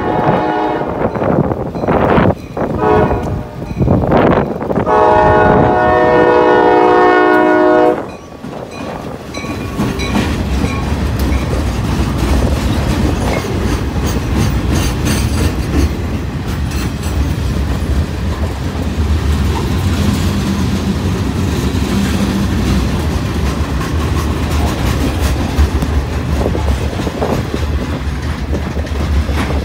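Diesel freight locomotive horn sounding several blasts for the grade crossing, the last one long and cutting off about eight seconds in. Then the locomotive and freight cars run past over the crossing with a steady low sound and repeated wheel clicks on the rails.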